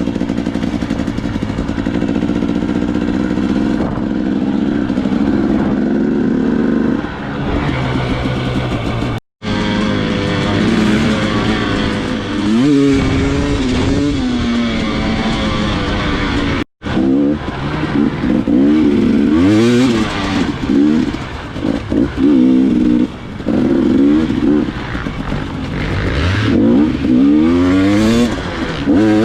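Dirt bike engine running under load on a trail, revving up and down as the rider works the throttle and gears. The sound cuts out sharply for an instant twice, about 9 and 17 seconds in.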